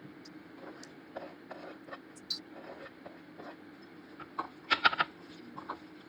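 Small kitchen handling sounds: scattered light clicks and scrapes over a faint steady hum, with a quick run of sharp clicks near the end.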